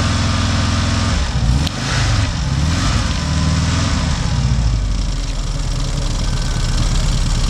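VW Syncro van's engine running after water had got into it and been blown out through the exhaust. It turns over evenly at first, then from about a second in the revs rise and fall unevenly for a few seconds before settling to a steadier run.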